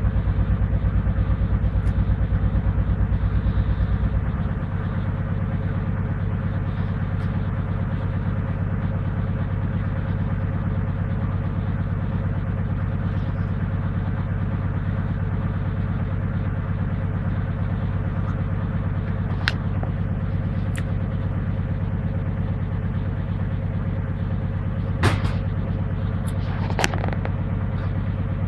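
Servis Gem M310 washing machine running steadily through its cotton 95 programme, a continuous low hum and drone that drops a step in level about four seconds in. A few sharp clicks sound near the end.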